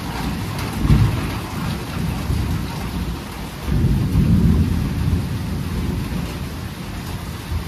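Steady rain falling during a thunderstorm, with rolling thunder: a rumble about a second in and a longer, louder one about halfway through.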